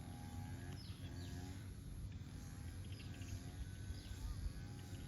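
Outdoor pond ambience: a steady low rumble with short bird chirps now and then, and faint drawn-out animal calls in the distance.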